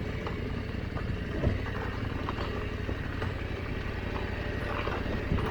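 Adventure motorcycle's engine running at low revs, a steady low drone, with a single thump about one and a half seconds in.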